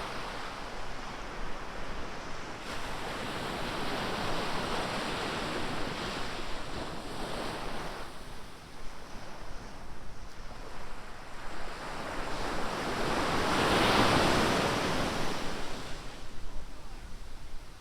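Ocean surf breaking and washing up a beach in slow swells, with the loudest wave crashing about fourteen seconds in.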